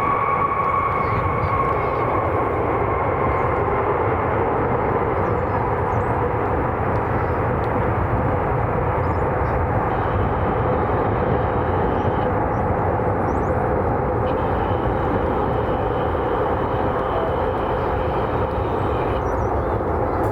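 Jet airliner engines running loud and steady as an aircraft passes, with a high whine that fades out in the first few seconds.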